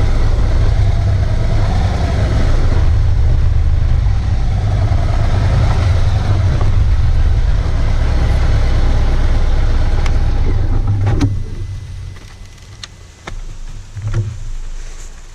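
Harley-Davidson Electra Glide Ultra Limited motorcycle running on the road, a loud, steady engine rumble mixed with wind noise. About eleven seconds in the sound falls away sharply as the bike slows and stops, followed by a few knocks.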